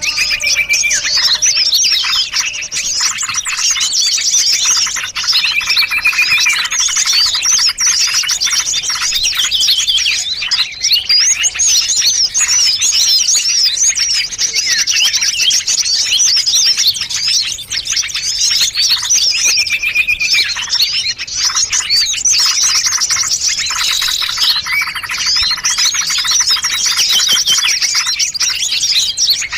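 A dense mixed chorus of small songbirds, many rapid chirps and trills overlapping without pause, forming a bird-luring track. A short, level whistled note recurs a few times through the chatter.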